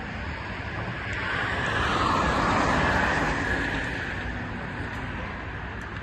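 A vehicle passing on the road, its tyre and engine noise swelling to a peak a couple of seconds in and then fading away.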